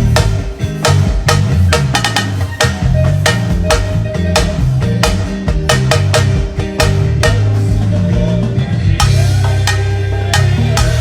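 Band music at a sound check: a drum kit and percussion play a busy groove of sharp snare and rimshot strikes over a steady bass line.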